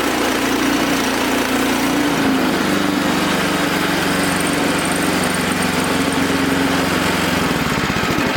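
Wood-Mizer LX25 band sawmill's engine running steadily while the mill saws a log; its pitch drops slightly about two seconds in.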